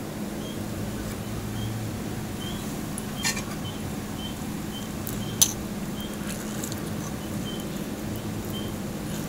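Close-up mouth and chewing sounds of eating crispy pork knuckle. A steady low hum and a faint high chirp, about three every two seconds, run underneath. Two sharp clicks come about three and five seconds in, the second the loudest sound.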